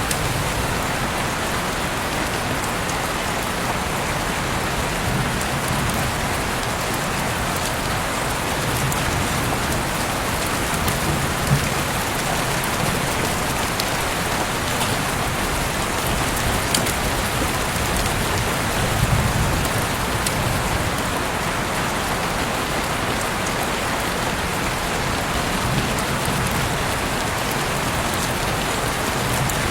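Heavy rain falling steadily in an even hiss, with a few louder drops ticking sharply now and then.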